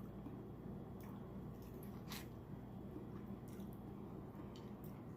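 Close-miked eating sounds of a person chewing seafood-boil food: soft wet squishes and lip smacks, with a few short clicks, the clearest about two seconds in.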